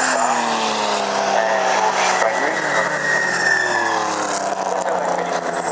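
Racing sports car engines running at speed, their pitch falling steadily as the cars pass by or lift off.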